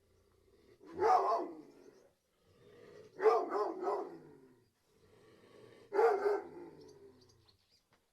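Hunting hounds barking in three bouts: a single bark about a second in, a quick run of three or four barks around three seconds, and another bark near six seconds.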